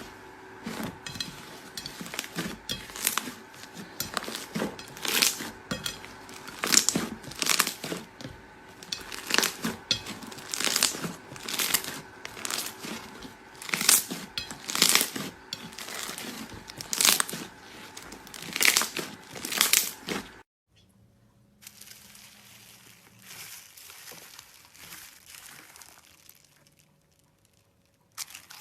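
Slime being worked by hand, giving loud crinkling, crackling strokes about once a second. Partway through it cuts off abruptly to a much quieter hiss that fades almost to nothing.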